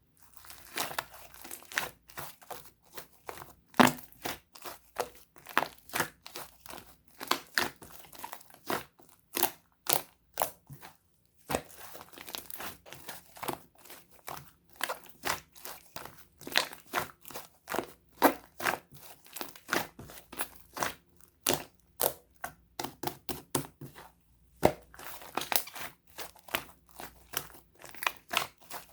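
Slime being squeezed and pressed by hand, giving a dense run of crackling pops and crunches that break off briefly twice.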